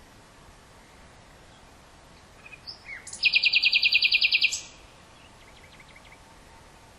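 Common nightingale singing: a few short notes, then a loud, rapid run of evenly repeated notes, about ten a second for well over a second, and then a few faint quick ticks, over a steady hiss.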